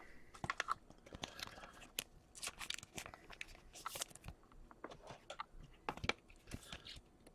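Trading cards and their packaging being handled at close range: irregular crinkling, rustling and small clicks of plastic, paper and card.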